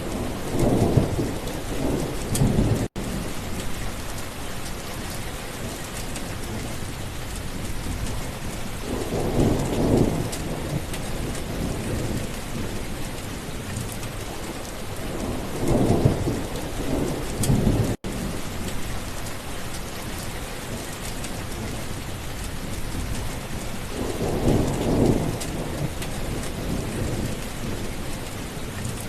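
Steady heavy rain with thunder rolling in four times: near the start, about ten seconds in, around sixteen seconds and near twenty-five seconds. The sound cuts out for an instant twice.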